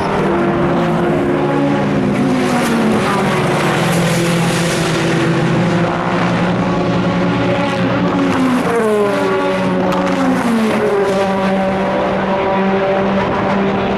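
Several endurance-racing prototype and GT cars' engines running at racing speed, their notes overlapping. Around two-thirds of the way through, the engine notes fall in pitch.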